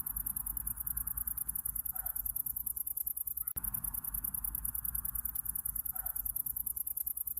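Night insects trilling in a steady, rapid high-pitched pulse, over a low background rumble, with a faint short call twice.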